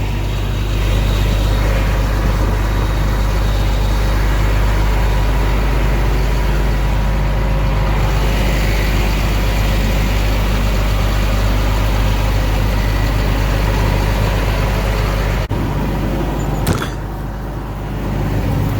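Combine harvester engine running steadily. Near the end there is a sharp click, after which it is a little quieter for a moment.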